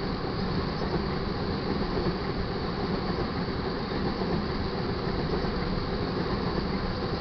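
Freight train of crude oil tank cars rolling past steadily: the continuous rumble and rush of steel wheels on rail.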